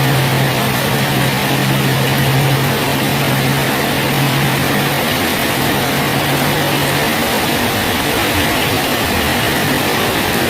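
Steady, heavy rain falling on a bridge, an even hiss throughout. A low steady hum sits under it and fades out about seven seconds in.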